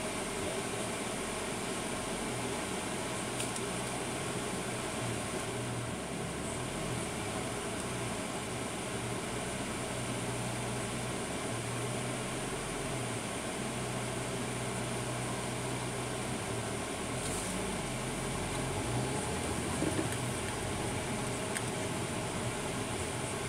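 Steady in-cabin noise of a vehicle driving: a low, even engine hum under a constant rush.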